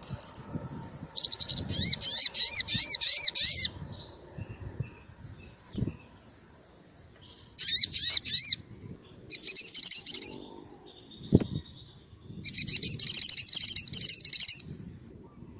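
Olive-backed sunbird (sogon) singing: four bursts of fast, sharp, high-pitched trilled notes, the first and last lasting two seconds or more, with short single chirps in between.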